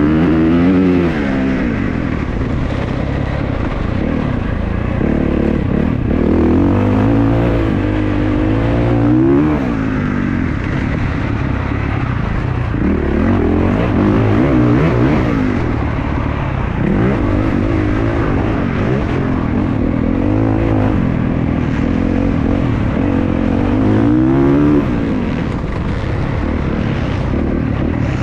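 Motocross bike engines running on the track, revving up and down again and again as the riders accelerate and shift gears.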